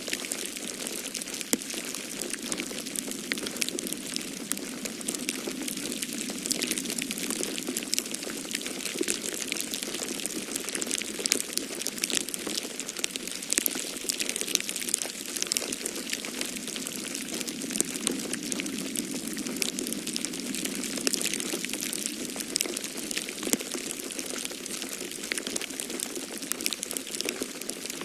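Wood fire in a fireplace crackling, with many small sharp pops and snaps, over a steady rushing of snowstorm wind.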